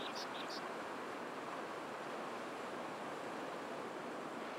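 Steady wash of ocean surf on the shore, with a few short high-pitched chirps near the start.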